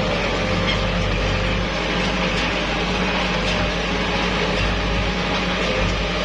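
Kubota L5018SP tractor's diesel engine running steadily under load.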